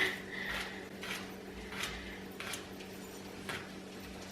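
Faint kitchen handling noises, a few light taps and clicks, over a low steady hum.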